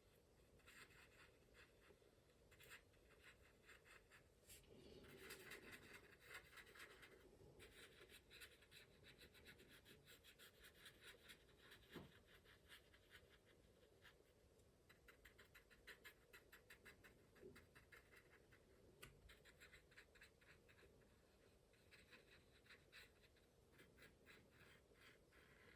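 Faint brushing and scratching of a wet watercolour paintbrush working paint across paper, in several short runs of quick strokes with pauses between.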